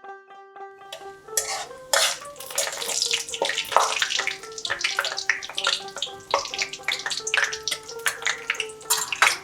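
Whole spices (peppercorns, cardamom, cloves, cinnamon, dried red chillies) sizzling and crackling in hot oil in a pan, starting about a second in, with a spatula stirring and clicking against the pan.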